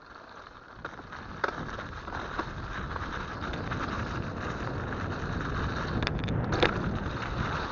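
Mountain bike rolling over a snowy trail: tyre noise and wind on the microphone, getting louder as speed builds, with a few sharp clicks and rattles from the bike.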